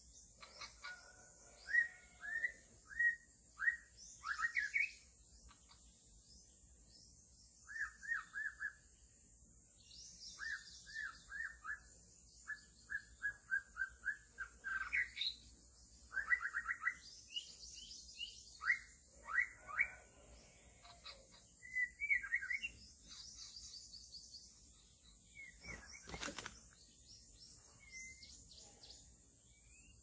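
Songbird calls: short runs of quick, repeated whistled notes with higher chips between them, over a steady high-pitched hiss. A single sharp knock comes near the end.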